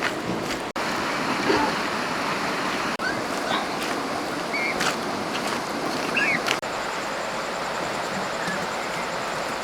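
Steady rushing of flowing water, with a few short high chirps over it and three sudden brief dropouts.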